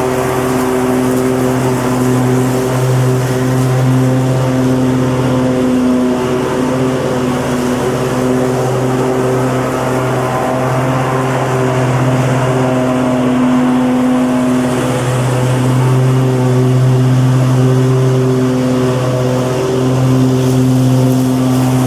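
Lawn mower engine running steadily at a constant speed, a continuous engine hum over a bed of noise that swells and eases slightly in strength.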